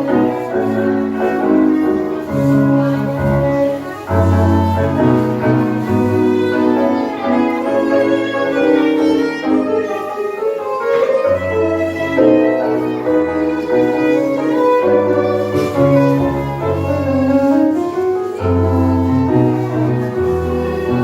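Tango music played live by a small ensemble, a violin carrying the melody over piano and bass. A bowed note slides down and back up about three-quarters of the way through.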